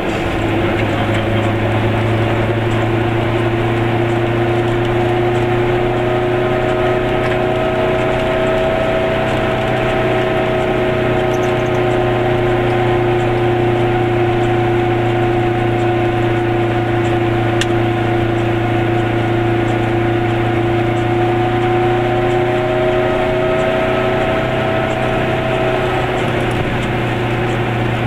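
Goggomobil's two-stroke twin engine running steadily while the car drives along, heard from inside the small cabin: a continuous droning hum with a whine that drifts slightly up and down in pitch.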